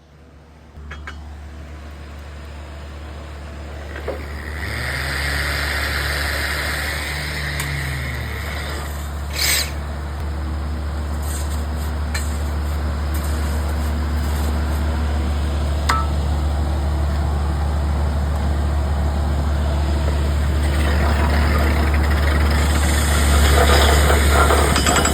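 Anchor drill rig's engine running steadily with a low hum, growing louder over time, with a brief hiss about nine and a half seconds in.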